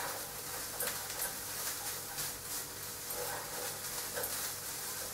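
Beef mince with onion, spices and carrots sizzling in a non-stick frying pan while being stirred, with a few short, higher-pitched sounds breaking in.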